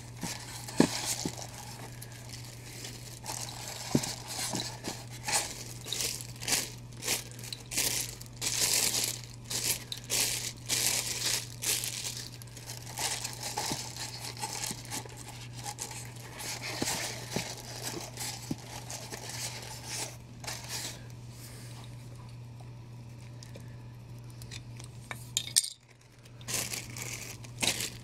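Plastic packaging crinkling and rustling in irregular bursts as a boxed statue is handled and packed away, with a few light clinks. The handling eases off a few seconds before the end, over a steady low hum.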